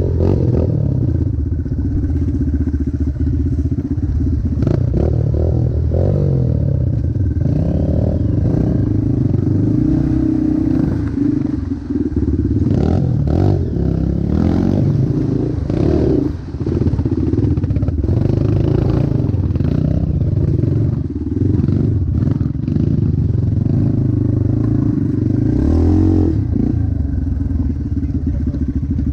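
Motocross bike engine running loudly, its pitch rising and falling as the throttle is worked, with two brief drops in level near the middle.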